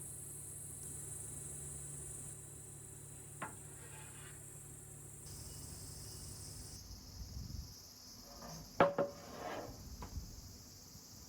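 A few knocks and clatters of objects being handled, the sharpest about nine seconds in with a short ring after it. A steady high hiss runs underneath.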